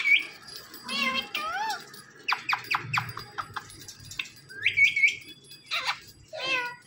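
Indian ringneck parrot making a string of short squawks and gliding whistled calls, with a quick run of sharp clicking notes about two and a half seconds in.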